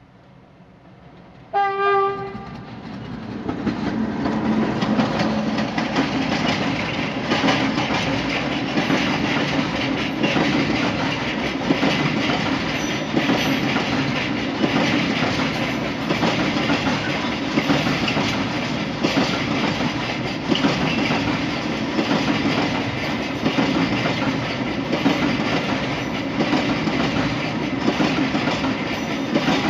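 A 060-DA (CFR Class 60) Sulzer-engined diesel-electric locomotive gives one short horn blast, then passes at the head of a freight train. Its covered hopper wagons roll past with a steady clickety-clack of wheels over the rail joints.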